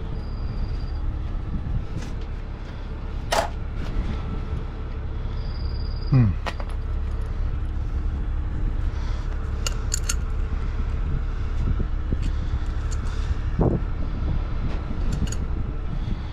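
Heavy truck engine idling steadily, with a few sharp metal knocks and clanks from fittings and tools being handled, one of them sliding down into a short falling squeal. Two short high-pitched beeps sound, one right at the start and one about five seconds in.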